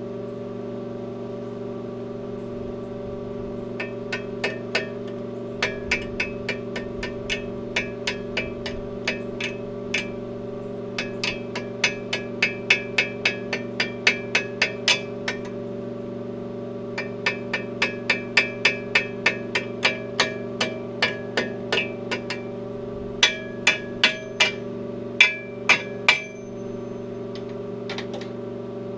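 A hammer striking steel in quick runs of ringing blows, about two to three a second, with short pauses between the runs. The blows are part of the work of welding new hooks onto a tractor's counterweight carrier. A steady low electrical hum runs underneath.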